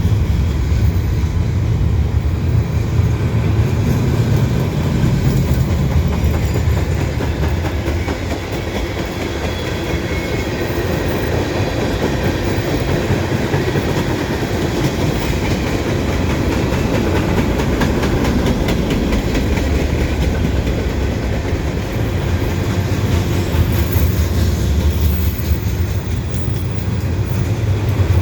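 CN mixed freight train of gondola and scrap-metal cars rolling past at speed: a steady, loud rumble of steel wheels on the rails.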